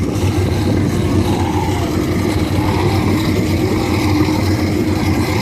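New small boat motor running steadily under way, smooth and even.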